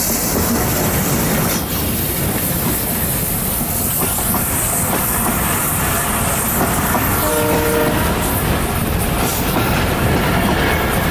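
A broad-gauge passenger train hauled by an ALCO diesel locomotive runs past at close range: the locomotive's engine first, then the steady rumble of the coaches' wheels on the rails. A brief horn blast sounds about seven seconds in.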